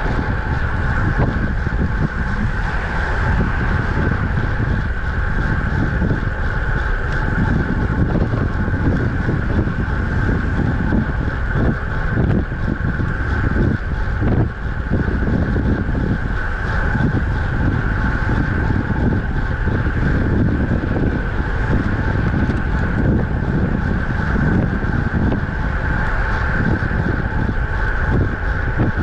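Steady wind buffeting the microphone of a camera on a road bike moving at speed, over continuous rolling road noise.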